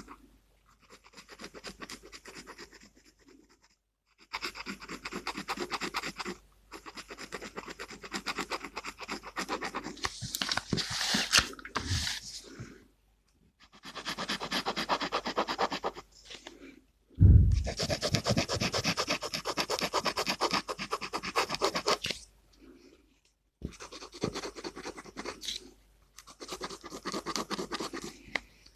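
Gel pen scratching on paper in runs of a few seconds of colouring strokes, separated by short pauses. A dull thump about 17 seconds in is the loudest sound.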